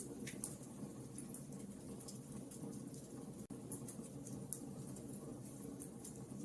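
Wood fire crackling: irregular small pops and snaps over a steady low rumble, cutting out for an instant about halfway through.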